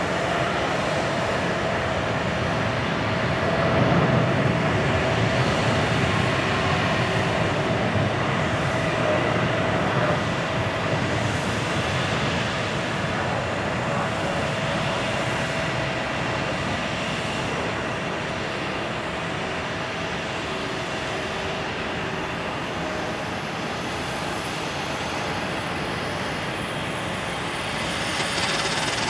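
Jet airliner engines at takeoff thrust during a departure: a steady, loud rush of jet noise with a high fan whine that slowly falls in pitch, loudest about four seconds in.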